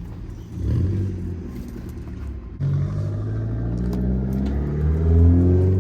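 A motor vehicle's engine running, growing louder about half a second in, then accelerating with a steadily rising pitch through the second half.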